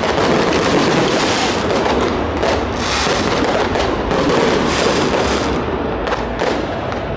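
Fireworks display bursting: a dense run of bangs and crackles over a continuous wash of noise, with sharper reports clustering a couple of seconds in and again near the end.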